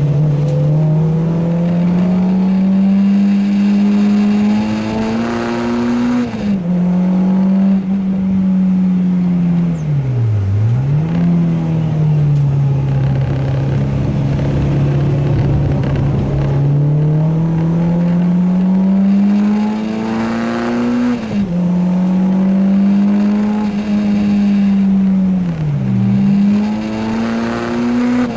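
Renault Clio 2 RS's four-cylinder engine pulling hard through the gears on a race track: the revs climb steadily and drop suddenly at an upshift about six seconds in, again past twenty seconds and at the very end. Twice, about ten seconds in and near the end, the revs fall sharply and climb straight back, as in braking and downshifting for a corner.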